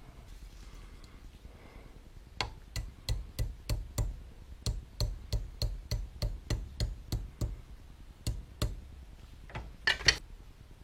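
A regular series of sharp clicks, about three a second for some six seconds, then a short pause and a louder quick cluster of clicks near the end.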